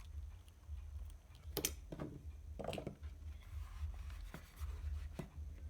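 Hands handling and unplugging a car stereo's wiring on a workbench: a handful of scattered clicks, knocks and short scrapes over a steady low hum.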